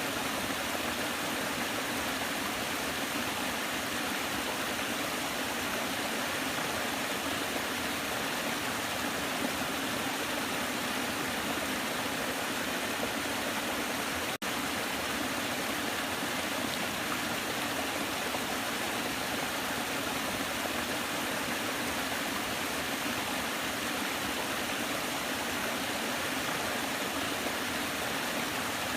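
Waterfall rushing in a steady, unbroken roar of falling water, with a split-second gap about halfway through.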